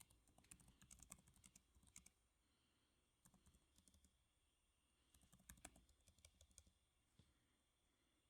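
Soft typing on a computer keyboard: three bursts of keystrokes with short pauses between them, then a single key click near the end.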